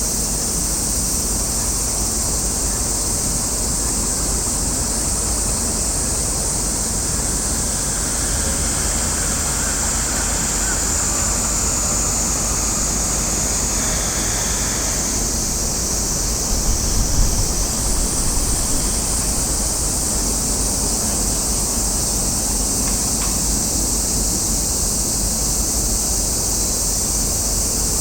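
Steady, loud high-pitched drone of summer cicadas, with wind rumbling on the microphone and a stronger gust about seventeen seconds in.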